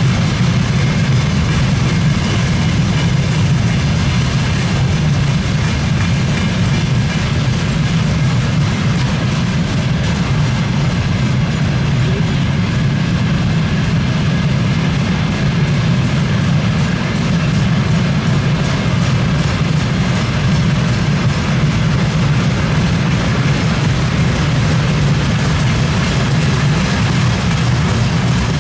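Freight train passing, a steady loud rumble of rolling wagons with the clickety-clack of wheels over the rail joints.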